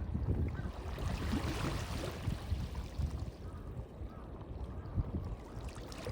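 Small waves washing and lapping in a harbour, with a swell of splashing hiss about one to two seconds in. Strong wind buffets the microphone with low, gusty rumbles throughout.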